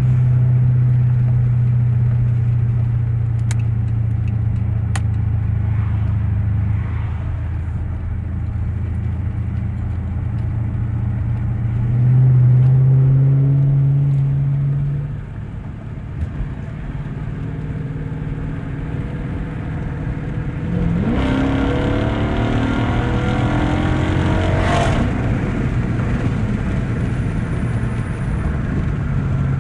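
2013 Dodge Charger's engine and exhaust droning steadily on the move, swelling louder for a few seconds midway. About two-thirds of the way through it revs up with a rising pitch, then settles back to a steady drone.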